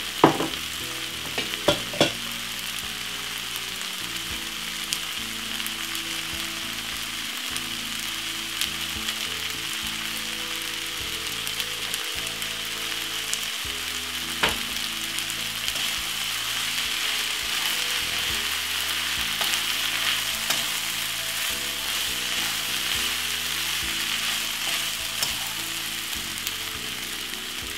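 Fusilli pasta and stir-fried cabbage sizzling steadily in a nonstick wok while being stirred with a wooden spoon. The spoon knocks against the pan a few times: twice near the start and once about halfway through.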